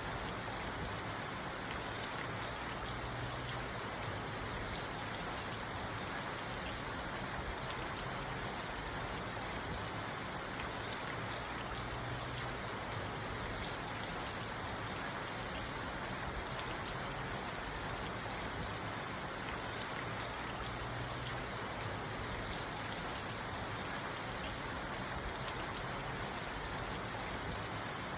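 Steady rain drumming on a car's roof and windows, heard from inside the cabin, with fine patter of individual drops.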